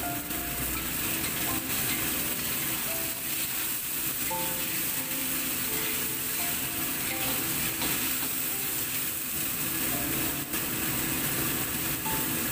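Eggplant and fish sizzling and bubbling in adobo sauce in a wok, a steady hiss, with a metal spatula stirring through the pieces now and then.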